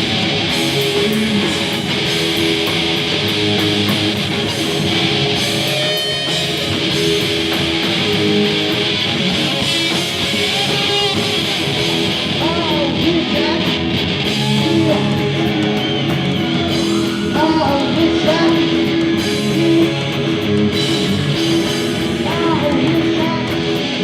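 Live rock band playing an instrumental section of a song, electric guitar to the fore. About halfway in a lead line of bending notes comes in over the band.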